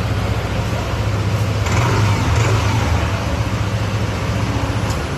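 Yamaha NMAX scooter's single-cylinder engine idling steadily, then cutting off about five seconds in.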